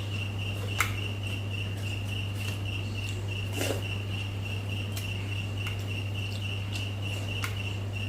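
Cricket chirping steadily, a high pulsing note at about five chirps a second, over a constant low hum, with a few soft clicks.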